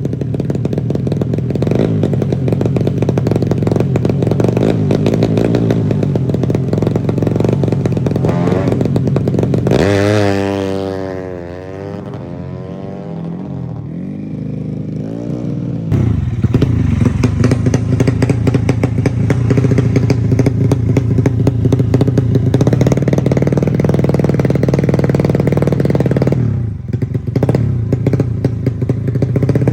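Motorcycle running hard on a bored-up 150 cc Yamaha Jupiter four-stroke engine in a Honda Supra frame. About ten seconds in the revs rise briefly, then fall away and the sound drops. Near sixteen seconds it suddenly comes back at full loudness and stays there.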